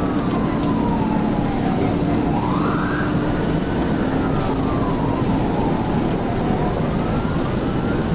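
Police car siren wailing in slow rising and falling sweeps, two wails overlapping out of step, over loud steady road, wind and engine noise from a vehicle at high speed.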